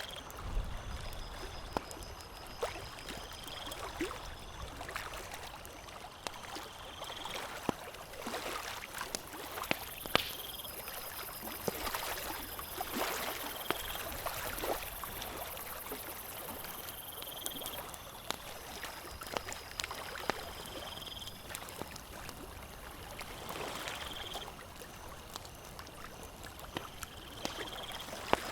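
Campfire crackling, with frequent irregular sharp pops and snaps over a soft steady hiss. Short high chirps repeat every couple of seconds in the background.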